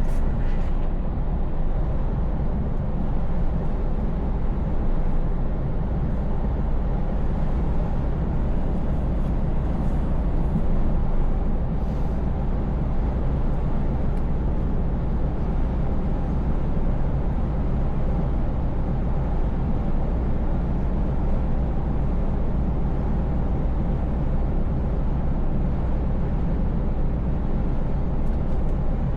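Scania V8 truck engine running steadily at cruise, a low rumble with a constant wash of road noise over it.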